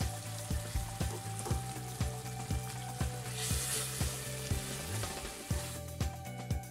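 Minced meat frying in a spiced masala in an aluminium pan, sizzling as it is stirred and broken up with a wooden spatula, with a brief louder hiss a little past the middle.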